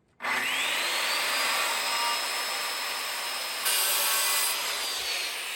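Electric circular-blade saw spinning up with a rising whine and cutting through framing lumber. It gets louder for a moment partway through the cut, then the motor starts winding down near the end. The blade is one the users suspect is crooked.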